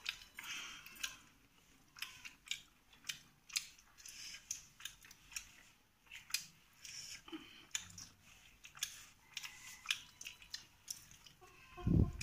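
People eating rice and curry by hand: irregular chewing and short mouth clicks, with a dull thump right at the end.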